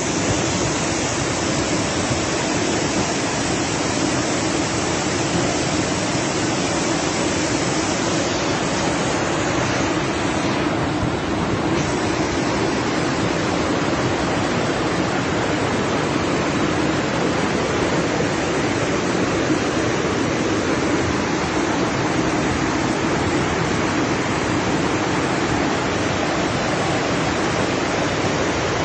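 Floodwater rushing past in a fast, heavy torrent: a steady, loud rush of water.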